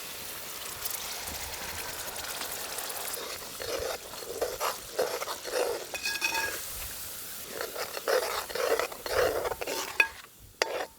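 Onion-tomato masala sizzling in oil in a pan. From about four seconds in, a spoon stirs and scrapes through it in repeated strokes, with a sharp click near the end.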